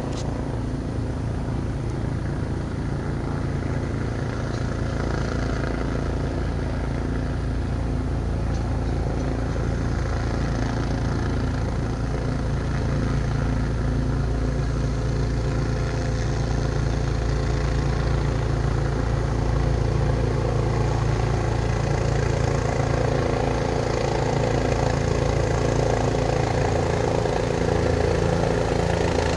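Helicopter running steadily as it comes in to land, its engine and rotor drone growing slowly louder.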